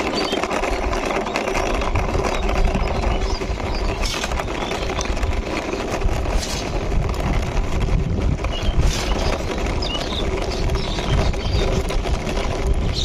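Plastic wheels of a toy car rattling and rolling steadily as it is pushed along by hand, with birds chirping faintly.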